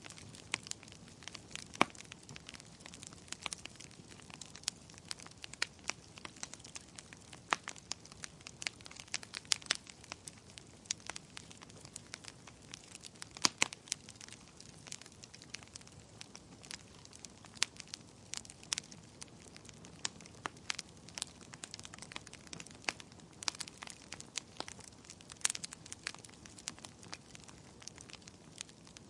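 Wood bonfire crackling: irregular sharp pops and snaps, a few louder than the rest, over a faint steady hiss.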